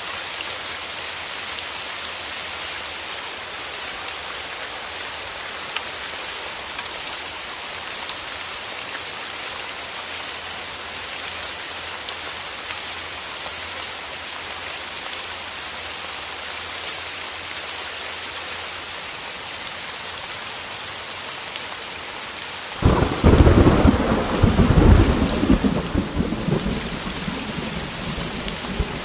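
Heavy rain falling with a steady hiss. About 23 seconds in, thunder breaks out suddenly and rumbles for around five seconds, then dies back under the rain.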